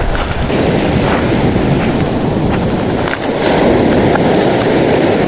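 Sea waves surging and washing, with wind buffeting the microphone; one surge builds about half a second in and a louder one about three and a half seconds in.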